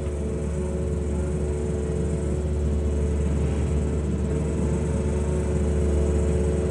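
Excavator's diesel engine and hydraulics running steadily under load, with a low drone and a steady hum, as it turns an auger down into stiff silty clay.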